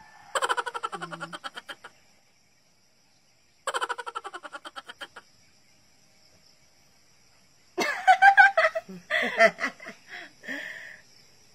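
A short burst of rapid, evenly pulsed laughing twice, then two women laughing together, louder and more ragged, near the end. A steady high insect chirring runs underneath.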